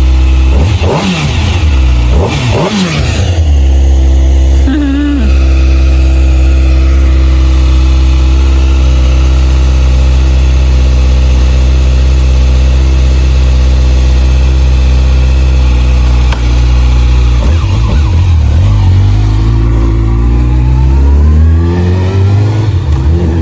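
A vehicle engine running steadily at a low idle, revving up and down a couple of times.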